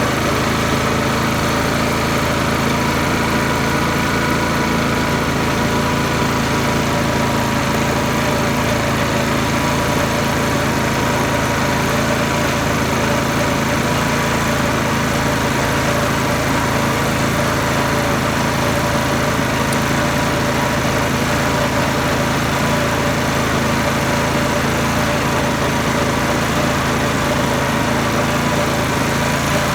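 Garden tractor's small engine running at a steady speed, with no revving.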